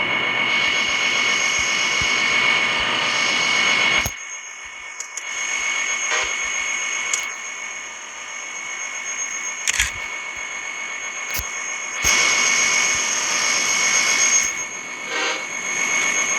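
Diesel freight train running: a steady high whine over a hiss. It drops off sharply about four seconds in and comes back louder about twelve seconds in.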